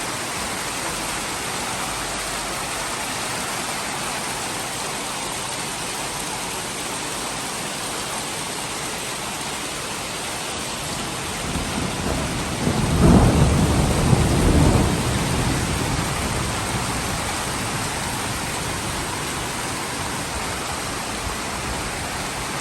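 Steady rain with some tiny hail mixed in, falling without a break. About halfway through, a rumble of thunder swells, is loudest for a couple of seconds and then fades over a few more.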